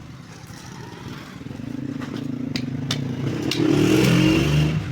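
A motorcycle engine running, growing louder to a peak a little after three and a half seconds in and easing off near the end, with scattered light metallic clicks.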